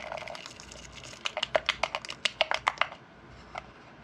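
Quick run of small sharp clicks and rattles from a glitter container being shaken and tapped over a urethane-coated wooden piece, about eight a second from one to three seconds in, then a few faint ticks.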